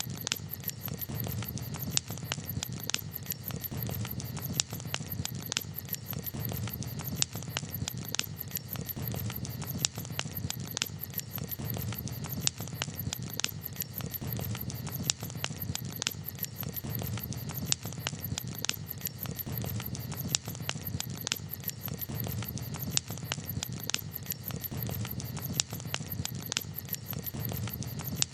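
Campfire crackling: a steady low rush of burning wood with frequent sharp pops and snaps at irregular intervals.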